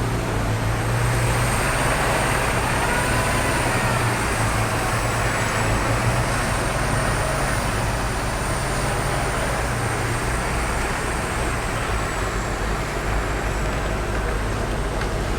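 Road traffic in snow: vehicle engines running and tyres on a slushy road, a steady rushing noise over a low engine hum, with a faint wavering whine a few seconds in.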